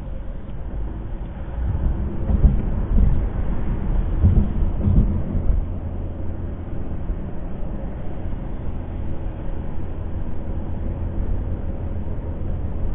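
Road noise inside a moving car's cabin at highway speed: a steady low rumble of tyres and engine, with heavier low thumping rumble for a few seconds starting about two seconds in.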